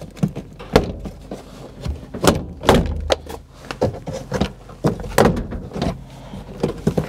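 Plastic interior door trim panel of a 2011 Subaru Impreza being jolted and worked loose from the door: a rapid, irregular series of sharp clicks, snaps and knocks.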